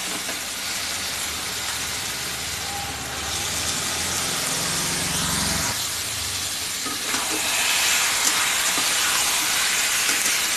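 Paneer and potato cubes sizzling in hot oil and masala in an iron kadai while being stir-fried with a steel spatula.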